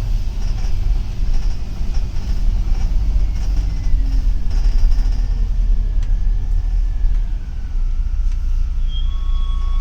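Steady low engine and road rumble heard inside a moving double-decker city bus, with a faint whine that slowly falls in pitch. A short high tone sounds near the end.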